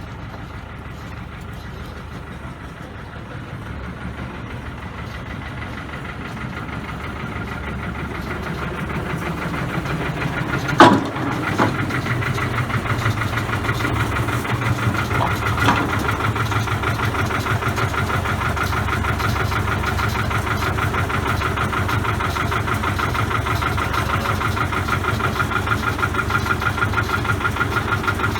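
Diesel engine of the Ravenglass & Eskdale Railway locomotive Cyril running with a steady, rhythmic beat. It grows louder over the first ten seconds or so, and there is a sharp clank about eleven seconds in.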